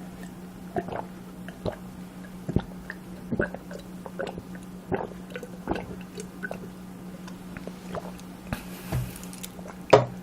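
Close-miked eating: irregular chewing, biting and soft wet mouth sounds over a steady low hum, with a brief hiss near the end and then one sharp knock, the loudest sound.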